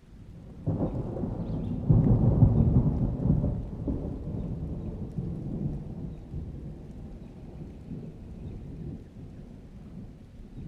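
A thunderclap breaks in suddenly about a second in, is loudest around two to three seconds, then rumbles away slowly, with rain falling underneath.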